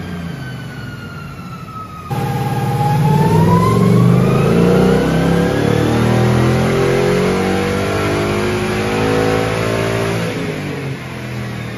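2021 Ford Mustang GT's 5.0 V8 on a chassis dyno making a full-throttle pull: after a brief wind-down, the engine comes in loud about two seconds in and its pitch climbs steadily for about eight seconds, then eases off near the end. It is a baseline pull on a bone-stock engine and stock tune.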